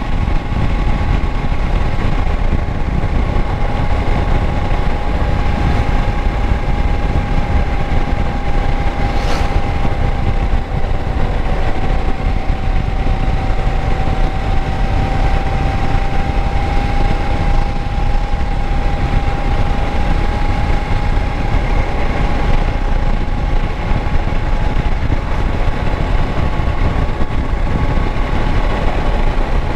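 Kawasaki Versys 650 parallel-twin engine idling steadily, with a steady whining tone above the engine note.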